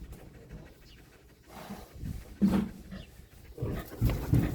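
Pig grunting and snuffling close by: a few short, low grunts, the loudest about halfway through and a quick run of them near the end.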